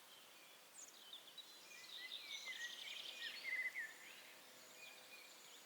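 Birds singing faintly: several short chirps and whistled phrases, with a quick trill about three seconds in, over a low steady background hiss.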